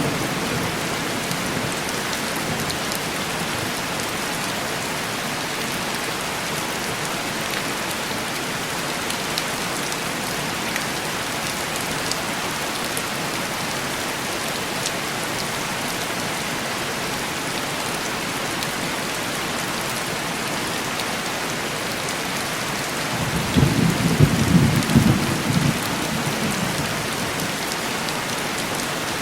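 Steady heavy rain tapping on window glass, with a rumble of thunder rolling in and fading about three quarters of the way through.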